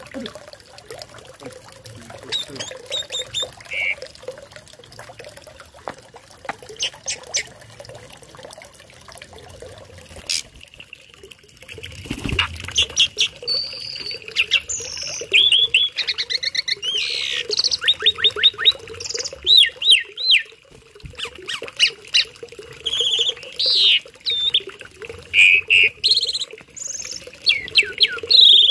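A tame starling singing a rapid, varied song of chirps, whistles and trills, sparse at first and growing dense and loud from about halfway.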